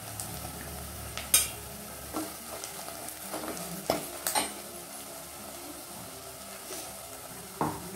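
Onions, garlic and dried red chillies sizzling in oil in a clay pot as a steel ladle stirs them, with a few sharp scrapes of the ladle against the pot.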